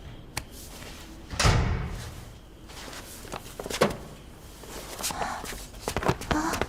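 A heavy thud about a second and a half in, like something being shut or knocked hard, followed by scattered sharp knocks and taps that become more frequent near the end.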